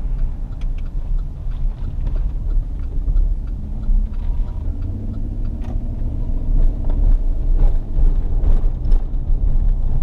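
Road and engine rumble inside a moving vehicle's cabin, steady and low.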